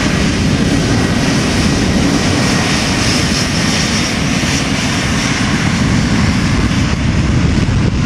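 Airbus A330 jet engines at takeoff power, a loud, steady rushing noise with a faint high whine in the middle.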